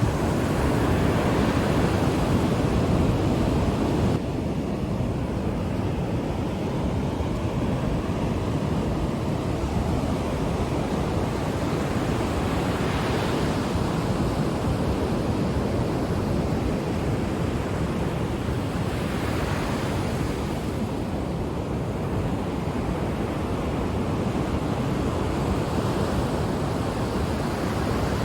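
Ocean waves washing onto the shore: a steady rushing surf, with waves breaking more brightly about 13 and 20 seconds in.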